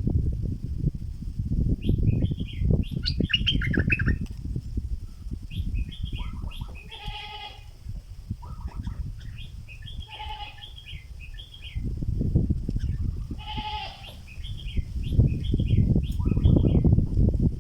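A stripe-throated bulbul decoy bird singing short bubbling phrases over and over, with three longer, harsher calls about seven, ten and fourteen seconds in. A loud low rumbling noise comes and goes underneath.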